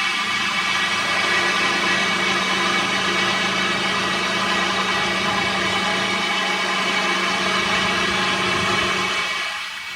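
A heavy engine running steadily with a constant hum, fading away near the end.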